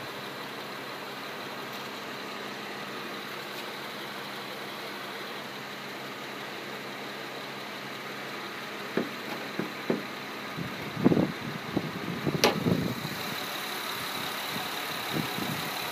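Honda 3.5-litre V6 idling steadily. Over the idle, a run of knocks and clunks comes about two-thirds of the way in, with one sharp click.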